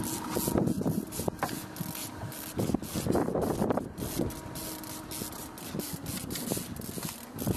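Fishing reel clicking and buzzing under load as a hooked spring Chinook salmon pulls against the line, with steady whining tones that come and go for a few seconds at a time.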